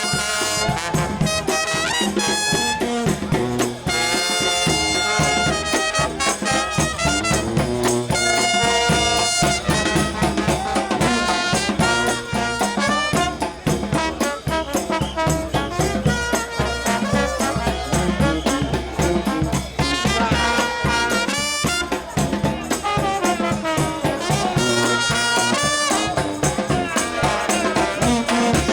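New Orleans brass band playing a second line: trumpets and trombones over a steady drum beat.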